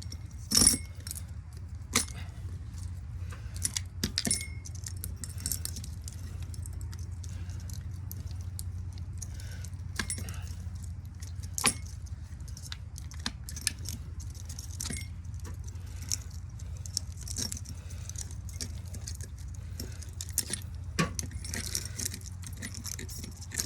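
Hand tools clinking and scraping on metal while a ceiling fan motor is taken apart for its copper winding: scattered sharp metallic clicks and knocks over a steady low hum.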